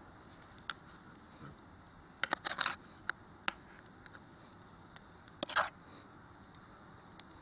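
Wood fire crackling: scattered sharp snaps and pops over a faint steady hiss, with a quick cluster of pops about two seconds in and another about five and a half seconds in.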